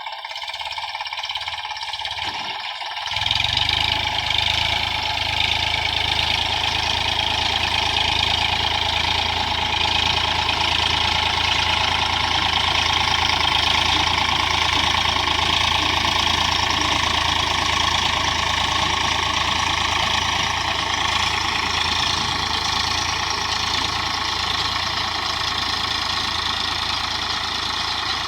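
Tractor's diesel engine running steadily, stepping up to a louder, fuller sound about three seconds in and then holding steady.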